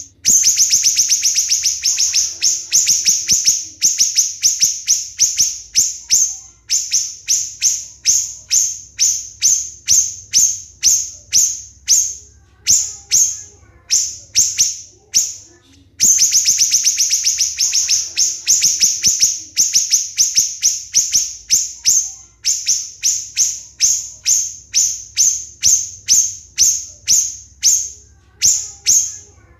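Siri-siri bird singing a rapid string of sharp, shrill high notes, the closely spaced "shots" that bird keepers prize. A fast run opens the phrase, then single notes come at two or three a second, and the whole phrase starts over about halfway through.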